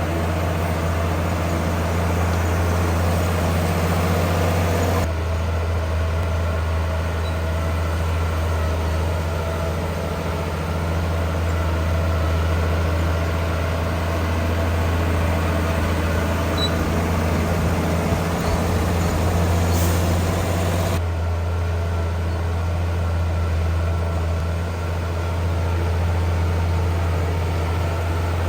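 Heavy diesel engines of earthmoving machinery running steadily with a deep, even hum. The sound changes abruptly twice, about five seconds in and about two-thirds of the way through.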